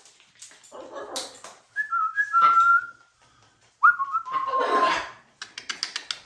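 Macaws calling: a raspy squawk, then two whistled calls about a second long each, the second breaking into a harsh screech. A quick run of sharp clicks follows near the end.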